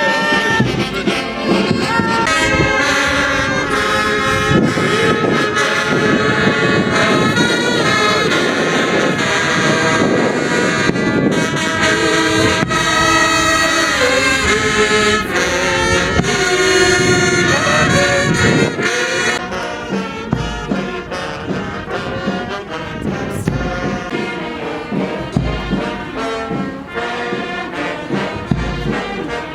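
Brass band playing, with trumpets and trombones carrying a tune. It thins out a little past the middle, where a few low thuds come in.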